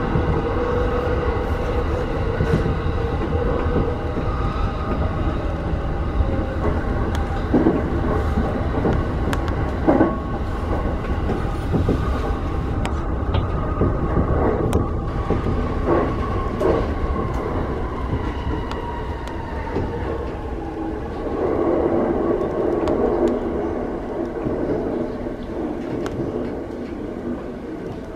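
A Keihin-Tohoku Line electric commuter train heard from inside the front car, running with a steady rumble, motor whine and scattered clicks from the wheels on the track. In the second half the whine slowly falls in pitch as the train brakes into the station.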